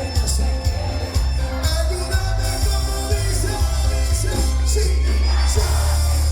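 Live band music with singing over a heavy bass line and cymbals.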